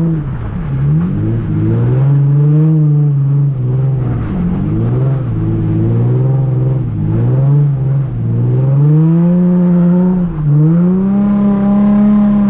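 Nissan 350Z's VQ V6 engine revving hard while drifting, heard from inside the car: the revs climb and fall over and over, with several sudden drops, the longest and highest climb near the end.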